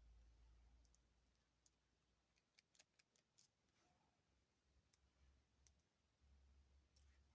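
Near silence with scattered faint clicks: small metal jewelry findings, chain and pliers being handled.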